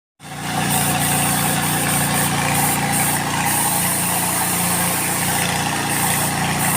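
A motor or engine running steadily, starting suddenly a fraction of a second in, with a high hiss that comes and goes over it.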